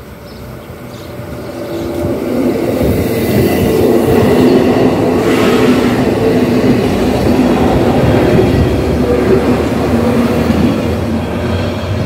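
A Zentralbahn metre-gauge electric train, a Stadler ABeh 160/161 coupled with a Stadler Spatz, passing over a level crossing. Its wheel and running noise builds over the first couple of seconds and then stays loud while the cars go by, easing slightly near the end.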